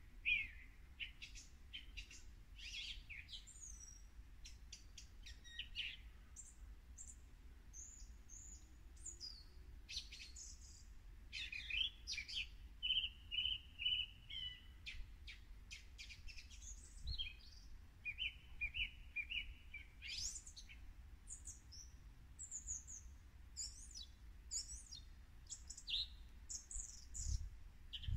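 Songbirds singing and calling: a busy run of high chirps, short trills and whistled phrases from several birds, over a faint low rumble.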